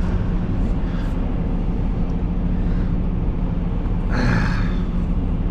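Semi truck's diesel engine idling with a steady low hum, and a short burst of noise about four seconds in.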